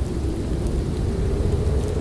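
Snowstorm ambience: a steady low wind rumble with a faint wavering howl above it.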